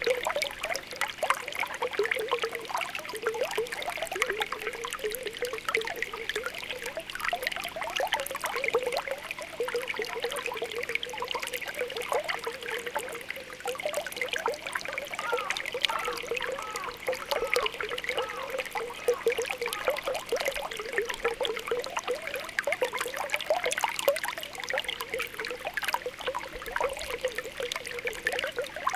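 Spring water welling up from the ground, bubbling and popping continuously with a dense patter of small plops and trickles.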